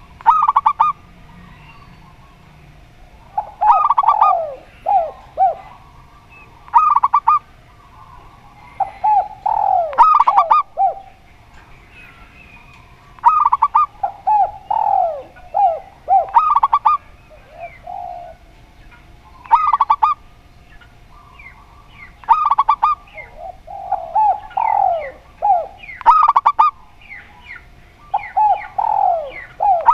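Zebra dove and spotted dove cooing in turn and overlapping, with phrases of short clipped notes and falling coos every few seconds. A faint steady tone hums underneath.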